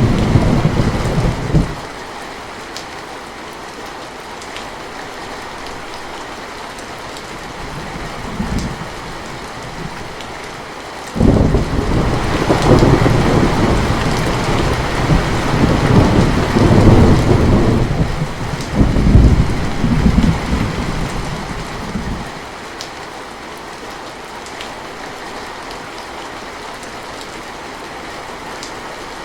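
Steady rain with rolling thunder. A rumble dies away just after the start and a faint one comes around eight seconds in. About eleven seconds in, a long, loud peal breaks suddenly and rolls on for some ten seconds before fading back to the rain alone.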